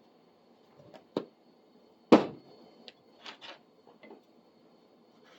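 A few sharp knocks and clunks of tools being picked up and set down, the loudest about two seconds in, followed by softer handling noises, over a faint steady hum.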